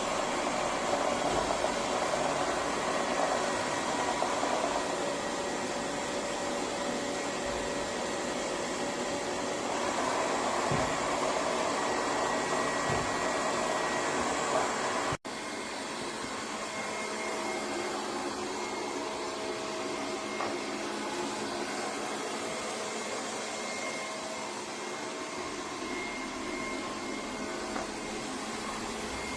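LEFANT M210P robot vacuum running steadily, its suction motor and brushes making a continuous hum, with a few soft low knocks in the first half. The sound cuts off abruptly about halfway and returns slightly quieter.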